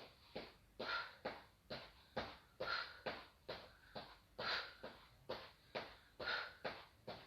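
Quick, rhythmic, forceful breaths of a person doing mountain climbers, about three a second, with every few breaths louder.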